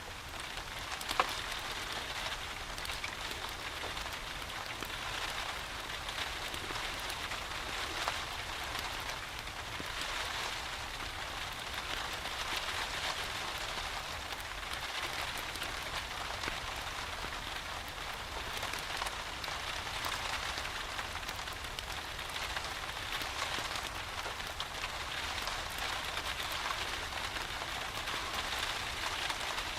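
Steady rain falling, an even patter, with a sharp click about a second in and another around eight seconds in.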